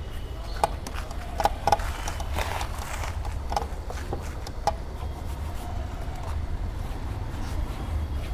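Scattered sharp clicks and knocks over a steady low rumble, most of them bunched in the first half.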